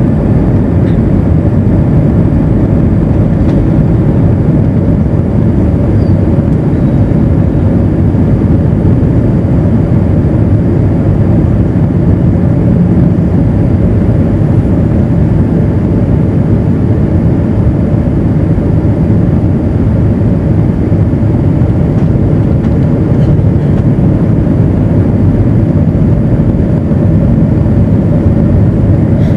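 Steady, loud low rumble of engine and airflow noise inside an Airbus A320 passenger cabin, unchanging throughout.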